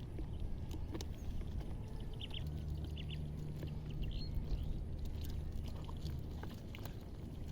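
Water sloshing and trickling as a fishing net is worked in a river, with small birds chirping now and then and a steady low hum that cuts out for about a second near the start.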